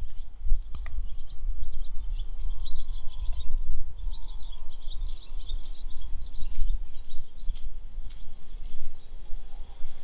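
Small birds chirping in quick bursts through the middle, over a steady low rumble.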